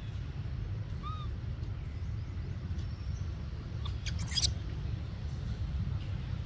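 A short, high, chirp-like animal call about a second in, and a brief crackling burst a few seconds later, over a steady low rumble.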